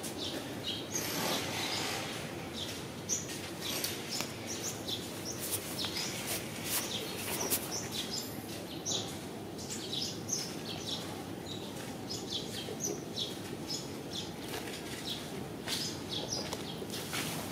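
Small birds chirping, many short high chirps coming and going, over steady low background noise.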